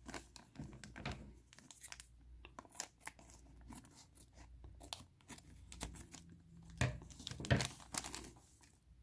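Plastic bag of miniatures being handled and torn open: irregular crinkling and tearing crackles, loudest twice near the end.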